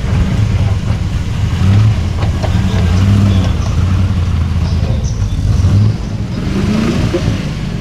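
Classic Range Rover's engine working under load as it crawls over steep ruts, its pitch rising and falling with the throttle. It eases off about six seconds in.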